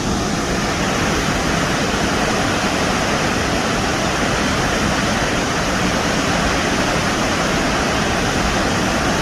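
Steady, loud rush of a large waterfall, High Falls on the Pigeon River, pouring without a break.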